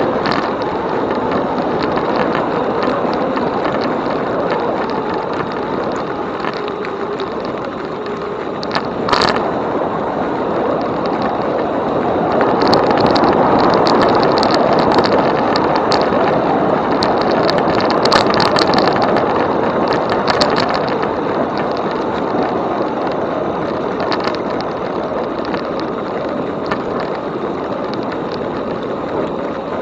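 E-bike rolling along a trail: steady tyre and wind noise, louder through the middle with light clattering rattles, and one sharp knock about a third of the way in.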